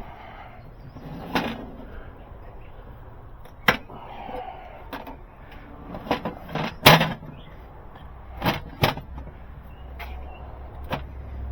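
Scattered sharp clanks and knocks, about eight at irregular intervals with the loudest cluster around the middle, as tools and metal parts are handled during work on a truck's diesel engine.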